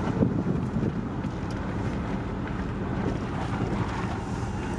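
Steady low rumble of a vehicle on the move, with wind noise.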